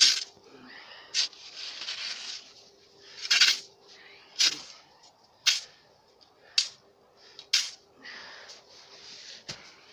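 Shovel digging and scraping snow: sharp crunching strokes roughly once a second, with softer scraping between them.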